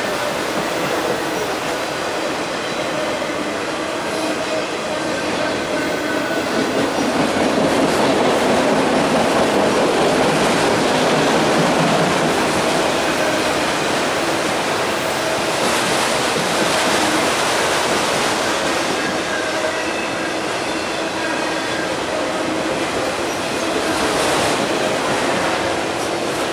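Freight train of enclosed autorack cars rolling past close by: a steady rumble and clatter of steel wheels on the rails, with faint thin squealing tones from the wheels running through it.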